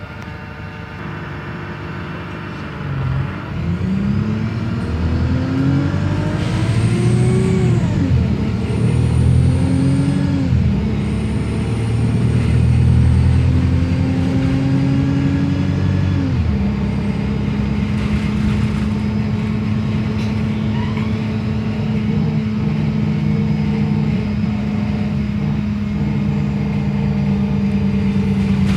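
Wrightbus StreetLite DF single-decker bus engine pulling away under load. Its pitch rises through three gears, dropping at each automatic upshift about 8, 10 and 16 seconds in, then holds steady at cruising speed. A faint high whirring comes and goes during the first gears.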